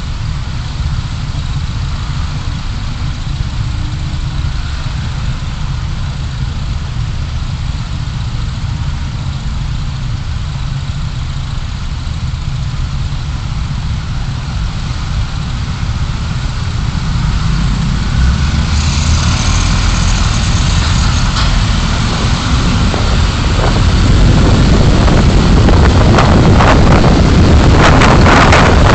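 A moving car's road and engine noise inside the cabin, heard as a steady low rumble. It grows louder about two thirds of the way in, as the car picks up speed, and rougher rushing and buffeting comes in near the end.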